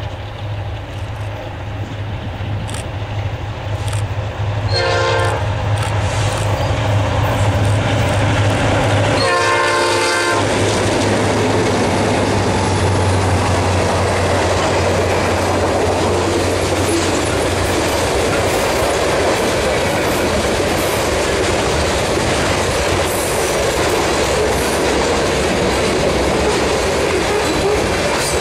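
Diesel locomotive horn sounds twice, a short blast and then a longer one about ten seconds in, as a freight train approaches. The locomotives' engines drone past, and then a long string of covered hoppers and boxcars rolls by, their wheels running steadily on the rails.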